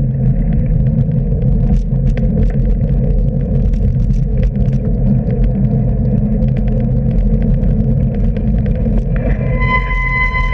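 Steady low rumble of a bicycle ride on wet roads, with wind and tyre noise on the microphone. Near the end a steady high tone with overtones sounds for about two seconds.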